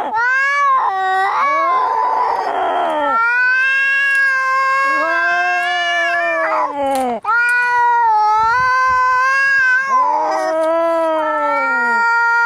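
Cats caterwauling in an aggressive standoff: long, drawn-out yowls that waver and slide in pitch, one after another, with a short harsh, noisy outburst about two seconds in.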